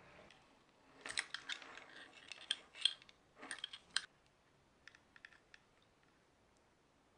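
Quick small clicks and taps of hand tools and small parts being handled, clustered in the first half, then a few faint ticks before it goes quiet.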